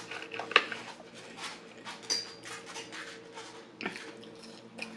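Close-miked eating: chewing and mouth sounds with a run of short crackles and clicks, as McDonald's fries are picked from their paper carton and put in the mouth.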